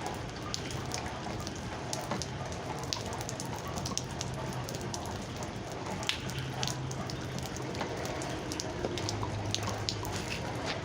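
Steady rain falling, with many close drops tapping and dripping onto hard surfaces in quick, irregular clicks.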